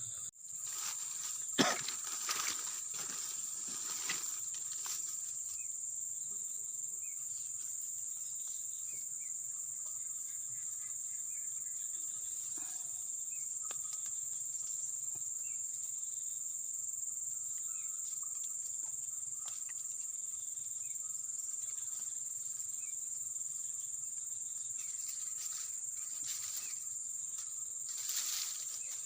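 Insects droning steadily on one high pitch, with a single sharp click about a second and a half in.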